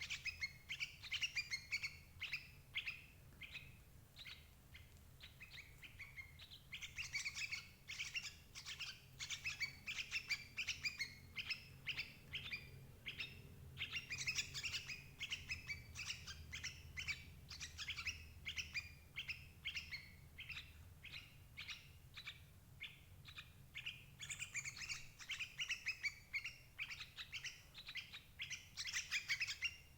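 Yellow-vented bulbul (crucuk) calls: dense runs of rapid, high chirps with brief lulls, played as a lure recording to draw in adult birds.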